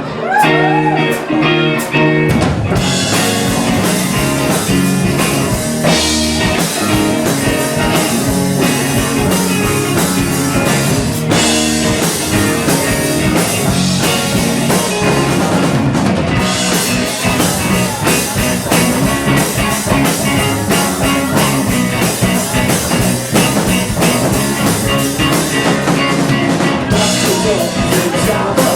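Live rock band playing: electric guitar and drum kit, with the full band coming in about two seconds in after a short guitar opening.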